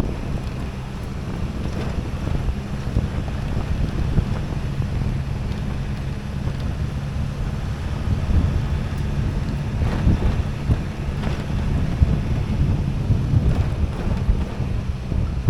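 Wind buffeting the microphone: a steady low rumble with small irregular swells.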